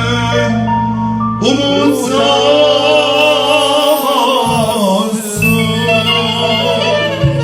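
Live band music: a wavering melody line with vibrato over sustained bass notes, the bass dropping out briefly past the middle.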